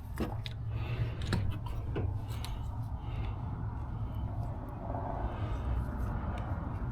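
A few sharp clicks and light clinks in the first two seconds, over a steady low hum.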